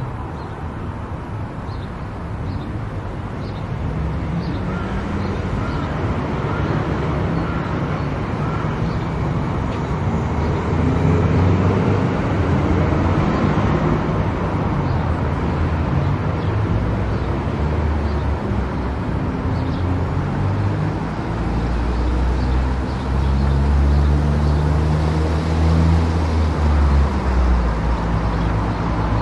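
A car driving on a highway: steady road and engine noise, with the engine's hum drifting up and down in pitch and a heavier low rumble from about two-thirds of the way through.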